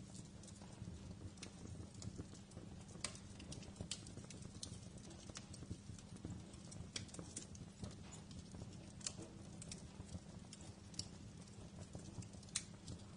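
Wood fire burning in a fireplace, with irregular sharp crackles and pops over a low, steady rumble.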